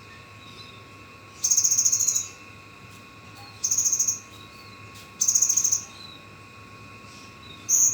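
A bird's high, buzzy trills, four times, each lasting under a second and about two seconds apart, with faint short chirps between them.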